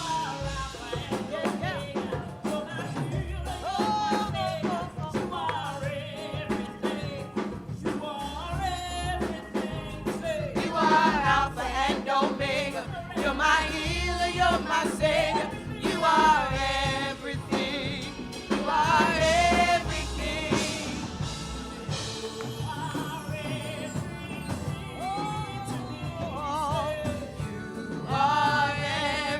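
Gospel worship music: voices singing long, wavering notes over a band with a steady bass line.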